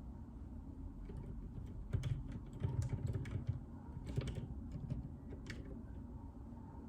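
Typing on a JJK84 mechanical keyboard with Outemu Silent Peach linear switches: a short run of dampened keystrokes starting about two seconds in and stopping a little after five seconds in.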